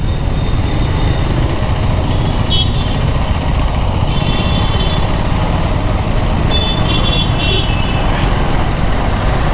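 On-the-move riding noise from a KTM 390 Duke motorcycle in traffic: a steady rumble of wind and road noise. Short horn toots from surrounding traffic break in three times: about 2.5 s in, around 4 to 5 s, and about 7 s in.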